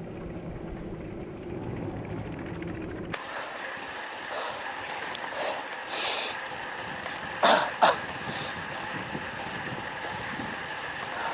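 Wind rushing and buffeting over an action camera's microphone on a moving road bike. About three seconds in, the sound changes abruptly to a brighter, steadier rush with a faint steady tone. About seven and a half seconds in come two short, sharp, loud sounds close together.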